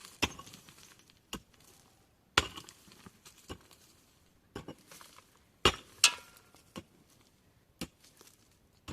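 A series of sharp, separate knocks, about ten of them at an uneven pace of roughly one a second. The loudest is a close pair a little before the middle.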